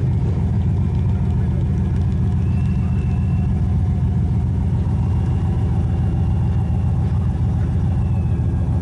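Vehicle engine idling steadily, deep and low-pitched, with no revving.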